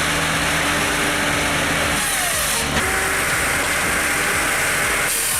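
A machine's engine running loudly and steadily under a strong hissing noise, its tone shifting about two to three seconds in.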